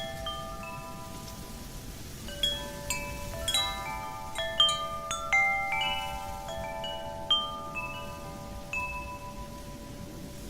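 Wind chimes ringing as the wind sways them: a few scattered strikes, then a busy flurry of overlapping ringing notes in the middle that thins out again near the end, each note ringing on for a long time. A steady rush of wind runs underneath.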